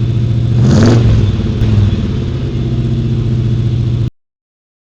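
Hot rod engine running loud and rough, with a quick rev about a second in, then cutting off suddenly.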